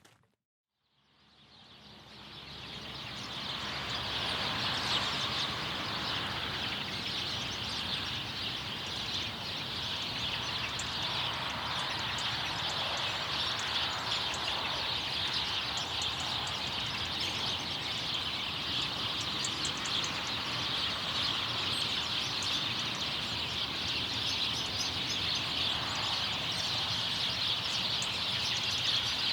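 Dense chorus of many small birds chirping all at once, a thick steady twittering. It fades in over the first few seconds.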